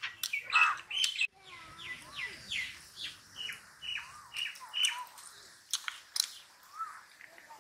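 A small bird chirping, a run of short falling notes about two a second, over sharp clicks and smacks of someone eating chicken by hand.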